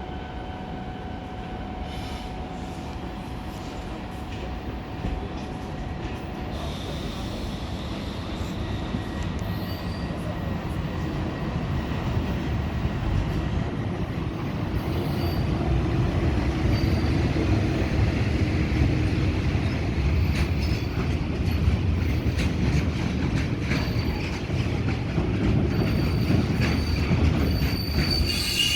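Freight train hauled by a ČD Cargo class 123 (Škoda 57E2) electric locomotive rolling past, a steady rumble that grows louder over the first half. Thin high wheel squeals and quick clicks over the rail joints run through it.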